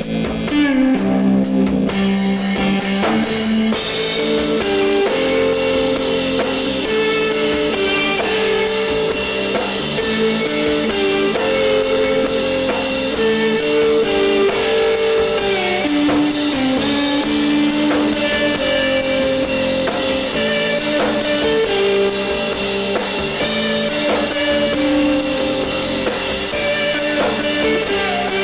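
A live emo/post-hardcore band playing: distorted electric guitar notes ringing over a drum kit, with the cymbals growing denser about two seconds in.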